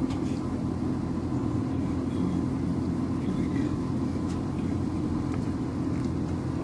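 Steady low engine drone with a constant pitched hum, as from an idling vehicle or other machinery.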